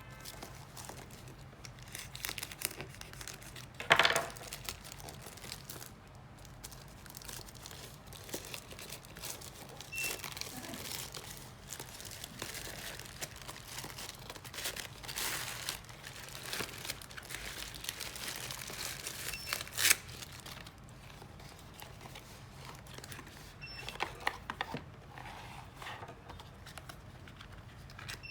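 Packaging being unwrapped by hand: crinkling paper or plastic and tearing, with scattered small clicks and two sharp clacks, about four seconds in and near twenty seconds.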